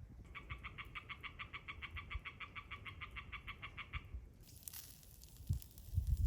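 An animal call: a rapid, even trill of about seven pulses a second, held for nearly four seconds before it stops. It is followed by a brief rustle and a few low knocks near the end.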